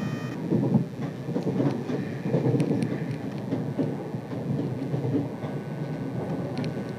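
A train rumbling along the track: a low, uneven rumble with a few faint clicks. A high, steady multi-tone whine cuts off just after the start, and a faint steady tone comes in near the end.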